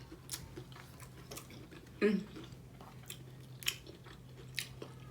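Close-miked chewing of a burrito: soft, wet mouth clicks and smacks about once a second, with a brief low mouth sound about two seconds in, over a faint steady hum.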